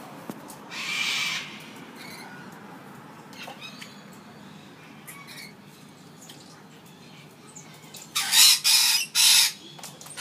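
A bird squawking harshly: one squawk about a second in, then three loud squawks in quick succession near the end.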